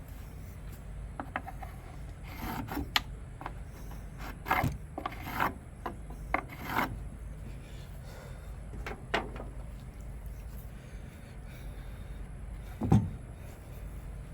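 Wooden boards being handled and positioned: scattered scrapes and rubs of wood on wood with short knocks, clustered in the first half, and a louder knock near the end.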